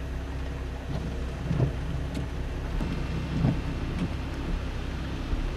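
Steady rain falling under a constant low rumble, with a few dull low thumps.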